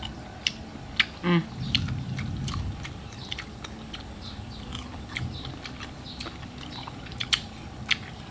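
Close-up chewing and biting of raw green Indian mango slices with bagoong: crisp, irregular crunching clicks throughout, with a brief hum of voice about a second in.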